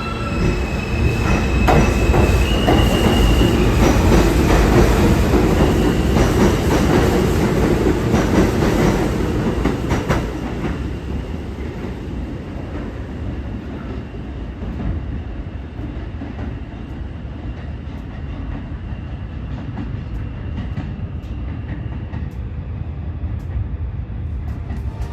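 R160 subway train running through the station with rumbling wheels and a high motor whine that steps up in pitch in the first few seconds. The train is loudest for about the first ten seconds, then dies away to a lower, steady rumble.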